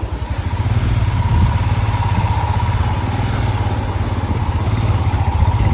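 A vehicle engine running steadily, a low rumble with a fast, even throb.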